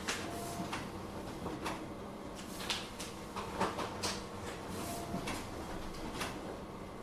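Office ambience: the steady hum of office machinery with about eight irregular short rustles and clicks of paper handling and desk work, and two brief faint beeps, about half a second in and near five seconds.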